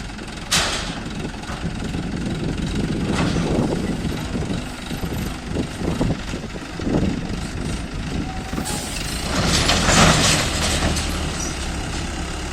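ACE 14XW crane's diesel engine running steadily while lifting an overturned truck. A short hiss comes about half a second in, a weaker one about three seconds in, and a longer, louder hiss from about nine to eleven seconds in.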